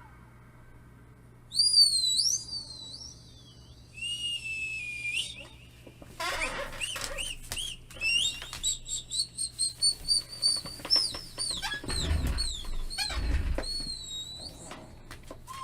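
High-pitched whistles played back as a sound meant to make a dog tilt its head, with an echo effect: a whistle gliding up and down, then a rising tone, then from about six seconds in a quick run of short repeated chirps.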